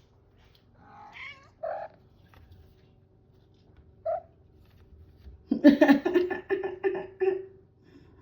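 A domestic cat meowing: a couple of short meows about a second in and another near four seconds, then a louder, longer run of caterwauling calls from about five and a half seconds.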